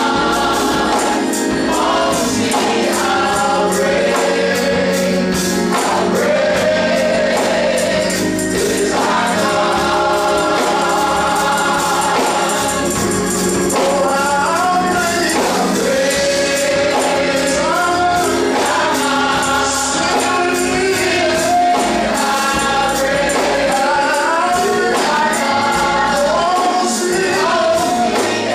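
Gospel choir singing with instrumental accompaniment, a tambourine keeping a steady beat.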